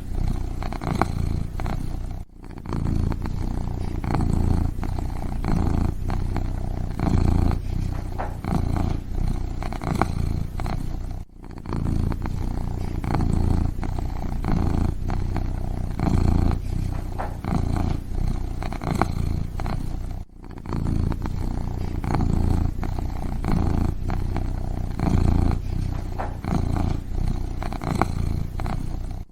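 Kitten purring close up, a steady low purr pulsing in rhythm, broken by a brief gap about every nine seconds.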